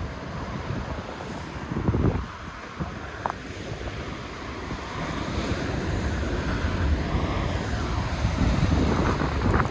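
Wind buffeting the microphone, with gusts about two seconds in and near the end, over the steady wash of heavy surf breaking against the cliffs.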